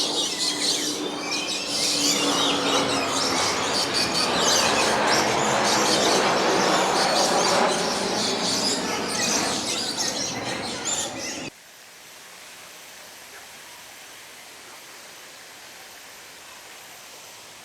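Many birds chirping and calling at once over a loud, dense background noise. About two-thirds of the way through it cuts off suddenly to a much quieter steady hiss.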